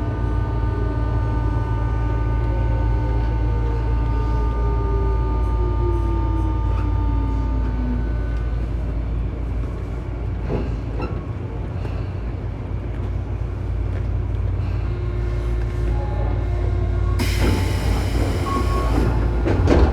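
Inside a stopped Tobu 9000 series electric train car: a steady low hum from its equipment. For the first eight seconds a high electric whine falls slowly in pitch and fades, and near the end a loud hiss lasts about two seconds.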